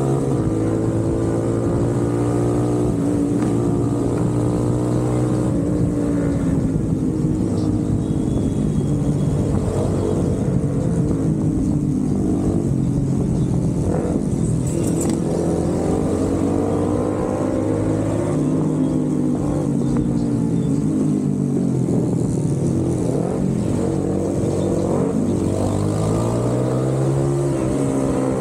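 Motorcycle engine running on the road, its pitch rising and falling again and again as the rider opens and closes the throttle.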